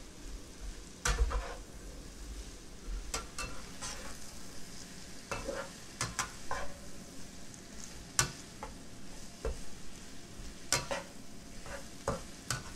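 Chopped Chinese sausage, onion and frozen peas and carrots sizzling in oil in a nonstick frying pan, while a metal spatula stirs them, scraping and knocking against the pan at irregular intervals. The sharpest knocks come about a second in and about eight seconds in.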